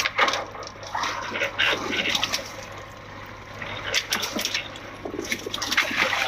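Water splashing and sloshing with irregular sharp knocks as a fishing net heavy with fish is hauled in, the fish still thrashing in the net, over a low steady hum.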